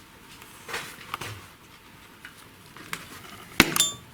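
Metal hand tools clicking and tapping on a car engine's cylinder head during valve stem seal work, ending in one loud metallic clink with a brief ring about three and a half seconds in.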